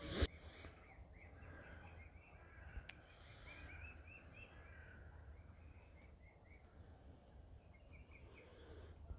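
Small birds chirping in quick runs of short, repeated notes over a steady low rumble, with a sharp bump right at the start.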